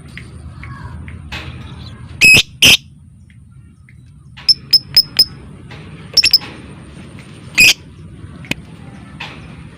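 Lovebird calling with loud, shrill chirps: two sharp calls about two seconds in, then a quick run of four chips, the rapid 'ngetik' chipping, followed by a few more single calls, over a low steady background hum.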